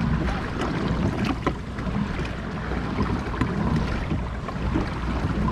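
Wind buffeting the microphone on a fishing kayak at sea, with water sloshing and a few sharp knocks on the hull.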